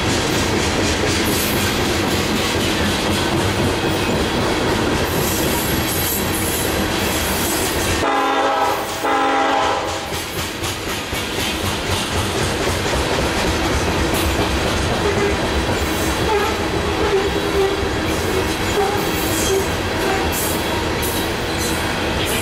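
Coal train hopper cars rolling past with steady rumbling and wheel clatter. About eight seconds in, a locomotive horn sounds two short blasts, one right after the other.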